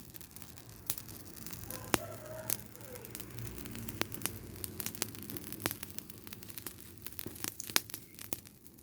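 Rubbish fire burning, crackling with sharp snaps and pops at irregular intervals over a low, steady rumble.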